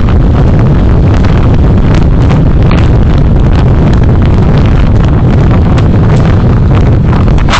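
Car on the move recorded by a dashcam: a loud, steady low rumble of road and engine noise, with frequent small clicks and knocks throughout.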